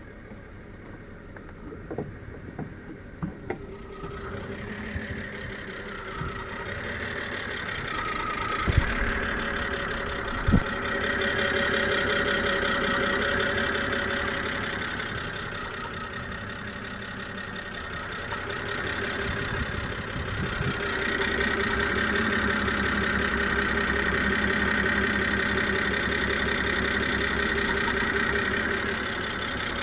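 BMW E92 325i's straight-six engine idling with a misfire, a steady high whine or screech running over the engine note, which the owner takes for an air leak. Two sharp knocks come about nine and ten and a half seconds in.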